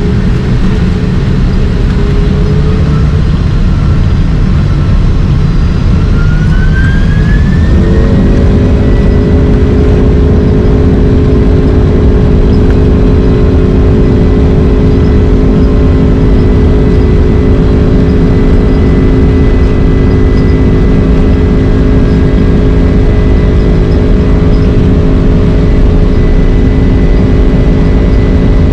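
The Boeing 767-300's General Electric CF6 jet engines spooling up, heard over a loud, steady rumble. A whine rises in pitch over about five seconds, then settles into a set of steady tones that hold on.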